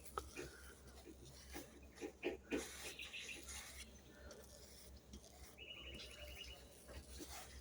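Faint brushing and scattered soft taps of a paintbrush working thick two-part epoxy primer onto a boat hull, with a short, high, rapid trill about six seconds in.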